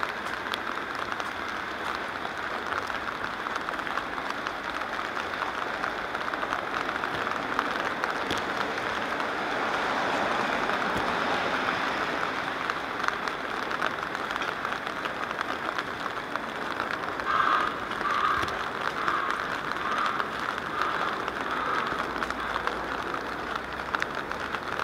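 Steady rain, with drops pattering densely on the camera's rain cover over the hiss of a wet street. The patter swells a little about ten seconds in.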